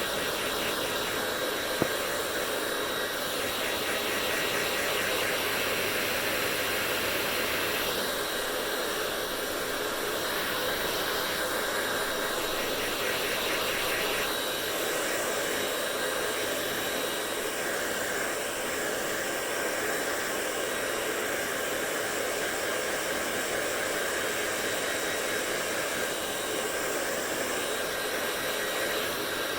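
Hair dryer running steadily, a continuous blowing hiss whose higher part shifts slightly in tone a few times, with one brief click about two seconds in.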